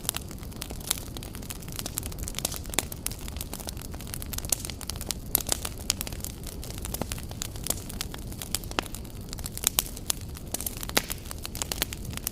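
Wood fire crackling steadily, with many sharp irregular pops and snaps over a low rumble of flame.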